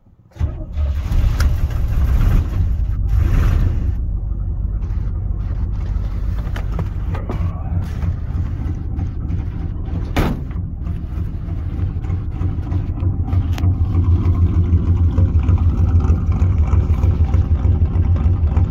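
1981 Chevy K30's small-block 350 V8 catching about half a second in on a winter cold start and running with a steady low rumble. It is running really rich on its untuned Quadrajet carburetor. A single sharp pop about ten seconds in.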